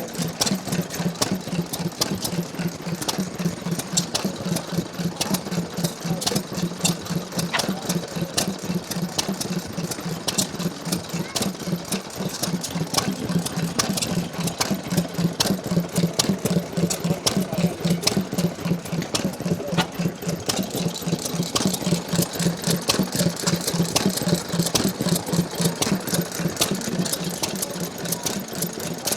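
Ronaldson Tippett Type D petrol stationary engine running steadily: a fast, even train of sharp mechanical ticks and clatter over a steady low hum.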